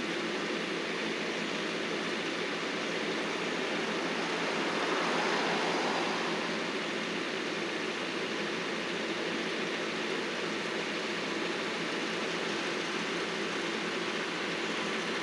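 Engine of heavy landscaping machinery running steadily, growing a little louder for a couple of seconds about five seconds in.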